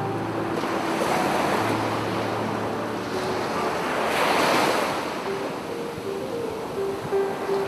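Sea waves washing onto a beach, rising and falling in swells, loudest about four and a half seconds in. Soft piano notes sound faintly underneath.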